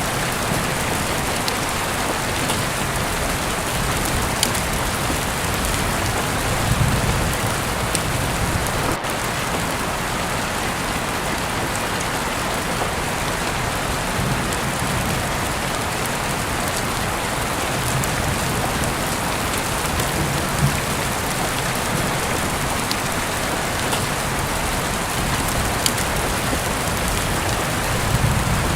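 Steady rain falling on a surface, an even hiss with scattered sharp drip-like ticks and a few soft low swells.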